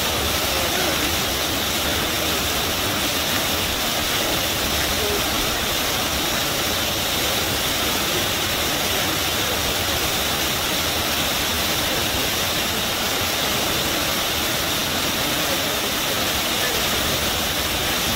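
River water rushing and gushing, a steady, even roar of water with no letup.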